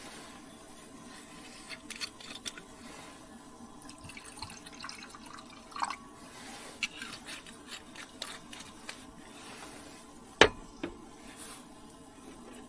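Scattered small clicks and knocks of things being handled, with one sharp knock about ten seconds in and a smaller one just after, over a low steady hum.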